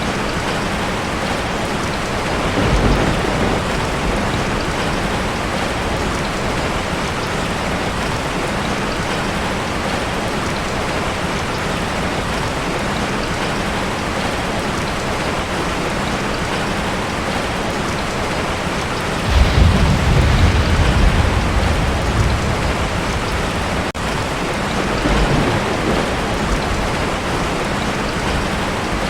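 Heavy rain drumming steadily on a tin roof, with thunder rumbling in low swells: briefly about three seconds in, strongest for a few seconds past the middle, and again a little later.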